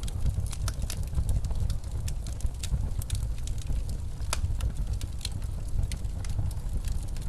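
Wood fire crackling in a fireplace, with frequent sharp pops, over the steady low rumble of snowstorm wind.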